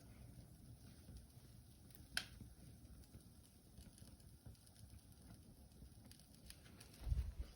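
Wood fire crackling quietly in a fireplace, with faint ticks and one sharp pop about two seconds in. A low thump comes near the end.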